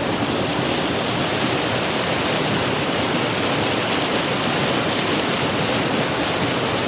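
Mountain creek water rushing over rocks, a steady, even rush of moving water, with one faint click about five seconds in.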